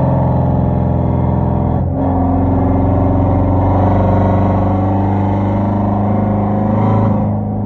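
Hyundai Genesis 5.0 sedan's V8 running through a straight-piped 2.5-inch exhaust with Flowmaster Super 10 mufflers and no catalytic converters, a steady deep exhaust note while driving. The note briefly breaks and steps in pitch about two seconds in and again near the end.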